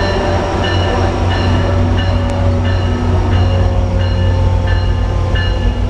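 Metrolink train led by an EMD F59PH diesel locomotive rolling in, a steady low diesel rumble with a bell ringing about one and a half times a second.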